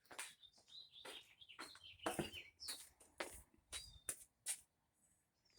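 A just-caught small bird chirping several times in short, high calls, amid rustling and clicking handling noises.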